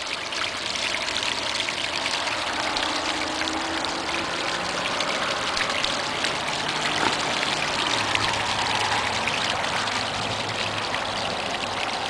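Small rain-fed waterfall going strong down a hillside, a steady rush of falling and splashing water.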